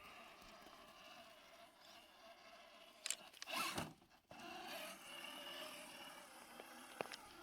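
A 1/7-scale RC trail truck's electric motor and drivetrain whining faintly as it crawls along, with a short, loud rushing noise about three seconds in and a stronger whine for a couple of seconds after it.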